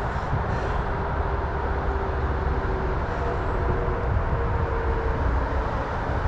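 Steady low rumbling outdoor noise with no distinct events, and faint held tones partway through.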